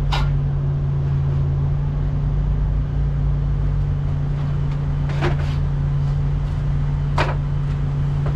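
Short hissing sprays of brake cleaner from an aerosol can: one at the start, one about five seconds in and one about seven seconds in. They sit over a steady low engine hum.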